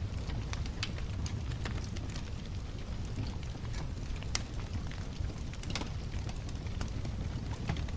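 Wood bonfire burning: a steady low rumble of flames with frequent sharp crackles and pops from the burning wood.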